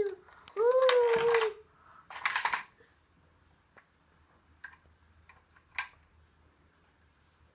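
A toddler's high voice holding a sung, wavering 'aah' for about a second, followed by a short breathy burst. After that come a few faint, light clicks and taps.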